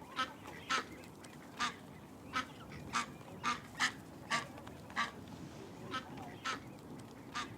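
Waterfowl calling from the water, about a dozen short calls in an irregular run, roughly two a second.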